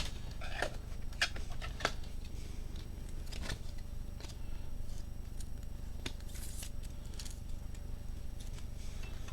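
Trading cards being handled and sorted, with scattered soft clicks and rustles of card stock over a steady low hum.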